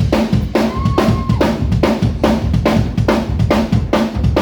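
Live drum kit playing a steady beat, with bass drum and snare hits a few times a second and a brief held tone about a second in.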